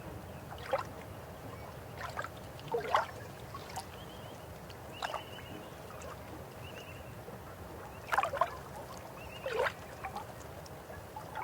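River water flowing steadily, with about half a dozen louder gurgles and splashes at irregular moments.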